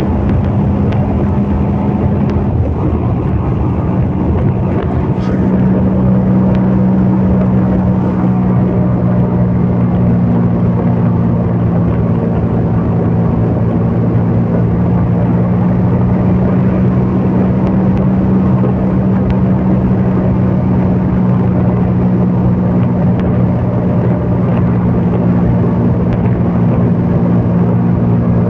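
CFMOTO Papio 125's single-cylinder engine running at a steady pitch, with a slight change in its note a few seconds in, then holding level.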